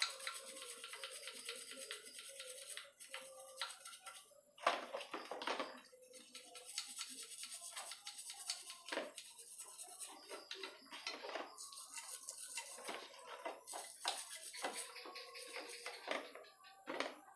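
A brush scrubbing stubborn baked-on crust off a Yamaha RX-King engine part in quick back-and-forth strokes, with a few louder scrapes. Background music plays underneath.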